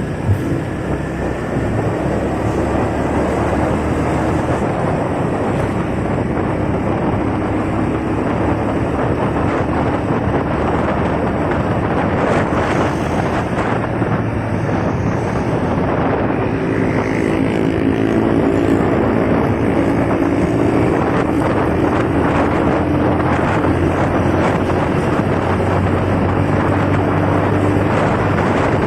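Motorcycle riding through heavy city traffic: engines running, one pitch rising and falling near the middle, with tyre and road noise and wind buffeting the microphone.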